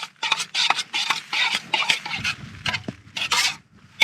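A spoon stirring powdered milk into water in a small camping pot, with quick, irregular scraping strokes against the pot's sides and base and a longer scrape about three seconds in.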